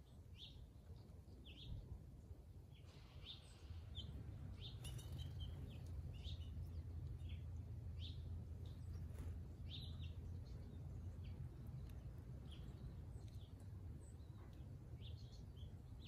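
Small birds at a feeder chirping in short, high notes, roughly one a second, over a faint steady low rumble that grows louder about three and a half seconds in.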